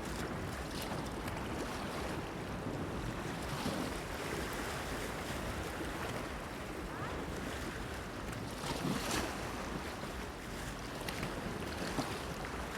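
Sea water lapping and splashing against a stone pier, with wind: a steady wash broken by a few louder splashes about four, nine and eleven seconds in.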